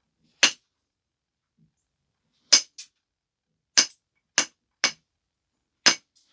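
Flintknapping: a stone biface being worked, six sharp stone clicks as flakes are driven off, unevenly spaced, with a fainter click just after the second.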